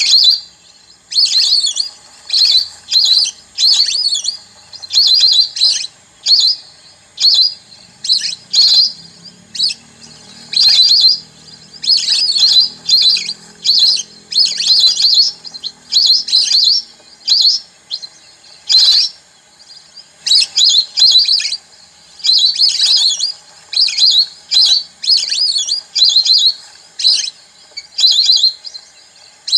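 Recorded bird song played through a bird-caller speaker: loud, short chirping phrases repeated over and over, about one a second.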